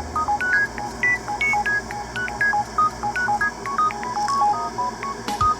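Background music: a quick melody of short, pure beeping notes, several a second, hopping up and down in pitch with no bass underneath.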